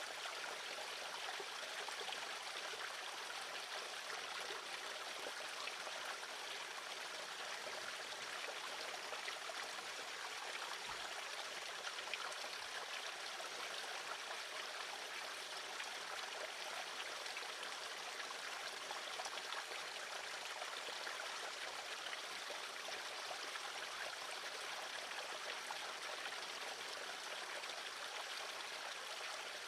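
Steady, even rushing of running water, like a small stream or fountain.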